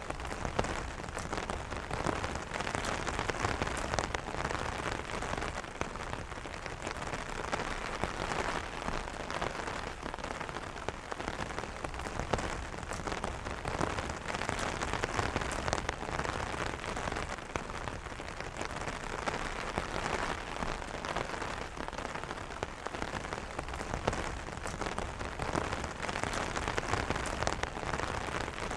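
Steady rain falling on an umbrella: a dense patter of drops hitting the canopy, with no thunder.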